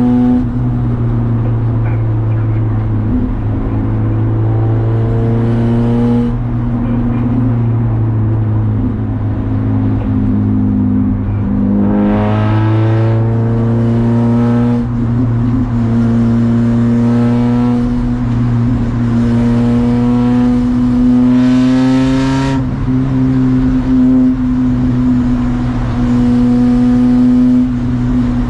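Race car engine pulling hard and easing off in turn: its pitch climbs steadily, most clearly twice in the second half, then falls sharply as the throttle is lifted or a gear is changed. A steady low drone runs underneath.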